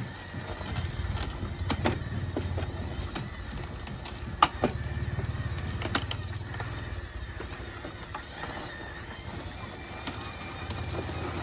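Motors of a radio-controlled construction machine running with a low buzzing drone, broken by sharp clicks and knocks, the loudest about four and a half seconds in.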